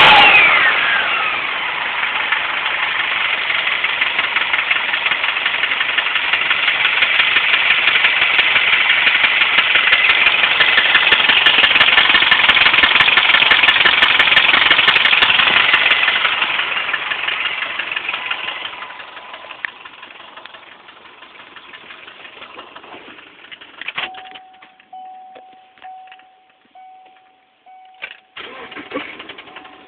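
Subaru Impreza's EJ25 flat-four engine idling rough with loud, rapid clicking, which the owner suspects is a spun bearing. The engine sound dies away after about sixteen seconds, leaving a few sharp clicks and an on-off electronic beep.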